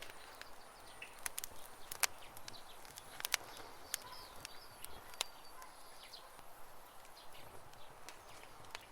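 Campfire crackling with scattered sharp pops, the loudest about two seconds and three seconds in, while small birds chirp in the background.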